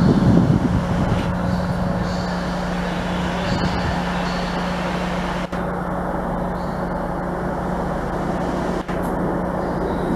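Train standing at the platform with its engine or traction equipment running, a steady low hum under a constant rumble.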